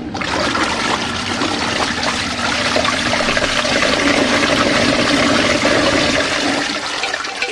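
Water rushing and churning in the tub of a small portable washing machine, starting suddenly and running steadily, with a low motor hum underneath.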